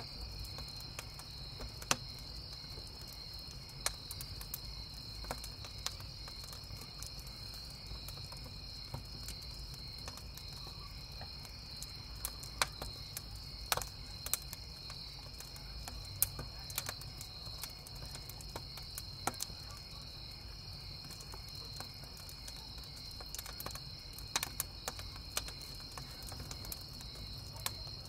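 Wood campfire crackling, with irregular sharp pops every second or so, over a steady chorus of crickets chirping.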